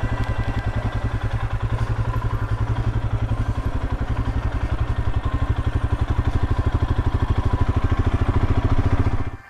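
Royal Enfield Himalayan's 411 cc single-cylinder engine running with a fast, even pulsing beat, growing slightly louder toward the end, then cutting off abruptly.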